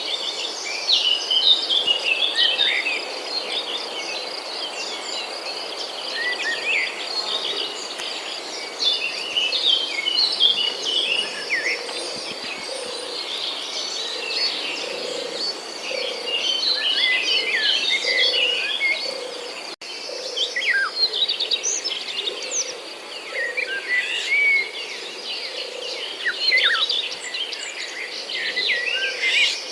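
Many small birds chirping and calling over a steady, high-pitched insect trill, with the sound briefly dropping out about twenty seconds in.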